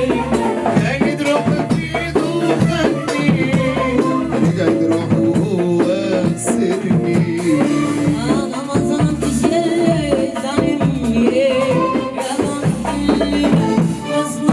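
Live rehearsal of an Arabic song: a band of melodic instruments over steady hand percussion, with a male singer.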